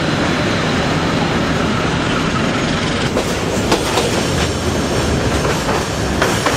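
Passenger train running, heard from inside the carriage: a steady rumble and rush, with sharp clacks of the wheels from about halfway through.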